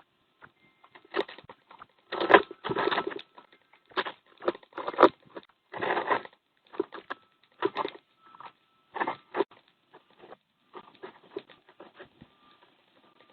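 Irregular crunching, tapping and scratching of an animal feeding at a bird feeder, close to a feeder camera's microphone. The sounds come in uneven clusters, loudest around two to three seconds in and again around five to six seconds in.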